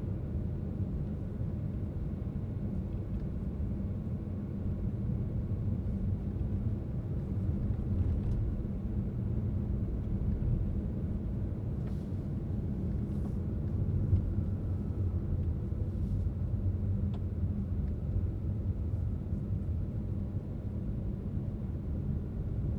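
A car driving along a road: a steady low rumble of tyres and engine, with a few faint clicks now and then.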